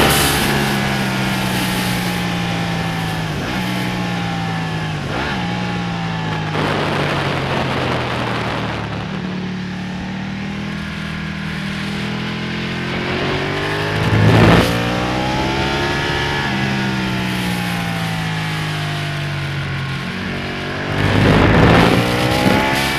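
Ducati Panigale's V-twin engine at racing speed, its pitch sliding down and stepping back up again and again through gear changes, and climbing as it accelerates, over a steady rush of wind noise. Two short, loud rushes of noise break in, about 14 seconds in and again near the end.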